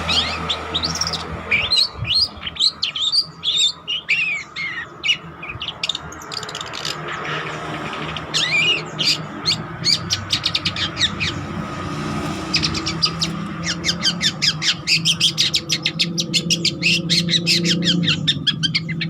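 Long-tailed shrike (cendet) singing in full voice: a varied run of chirps and whistled glides, then, about two-thirds of the way in, a fast series of sharp rattling notes.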